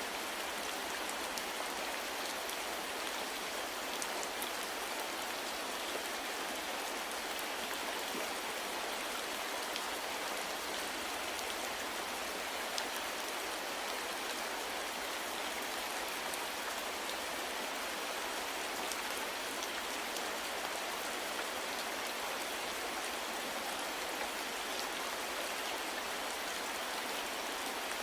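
Steady rain falling, an even hiss with a few faint drop ticks, unchanging throughout.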